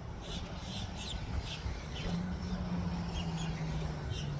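Small birds chirping over and over over a constant low rumble, with a steady low hum joining in for a couple of seconds midway.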